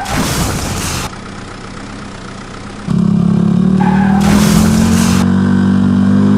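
A vehicle engine running, probably a sound effect laid over the toy footage. It is lower for the first three seconds, then jumps to a loud, steady drone about three seconds in. Two short hissing bursts come through, one about a second in and one near the middle.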